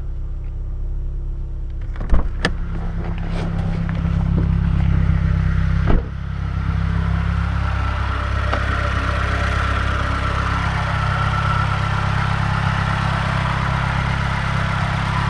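Mazdaspeed 3's 2.3 L turbocharged four-cylinder running at idle, with a few clicks and a thump about six seconds in. After the thump a steady whirring whine comes up over the idle, which the owner thinks is the water pump.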